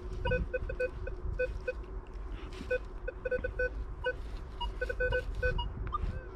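Minelab Vanquish 440 metal detector giving short, irregular beeps at one pitch as the coil sweeps over the ground, with a faint steady hum underneath.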